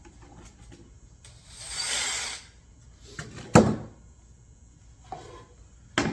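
Handling of objects on a workbench: a brief scraping rustle, then a sharp hard knock as something is set down, with a lighter knock near the end.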